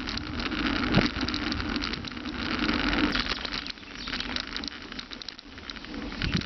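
Bicycle riding over rough field ground: tyre noise with frequent clicks and rattles over a low rumble, swelling and easing as it goes.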